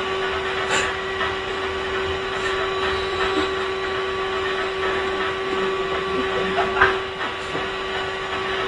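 Steady machine hum and hiss, with a few faint clicks and knocks.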